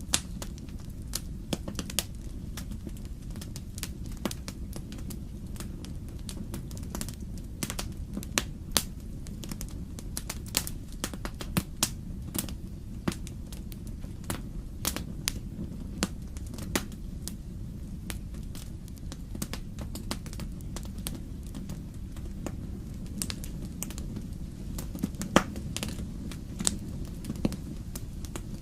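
Wood fire crackling in a fireplace: a steady low rumble of the flames with irregular sharp pops and snaps of burning logs.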